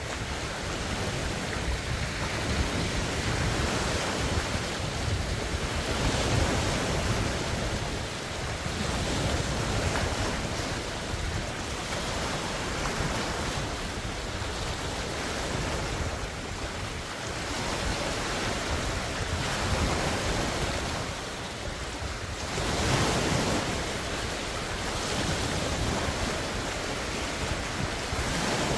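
Large wind-driven waves breaking on a lake shore, rising and falling every few seconds, with strong wind buffeting the microphone.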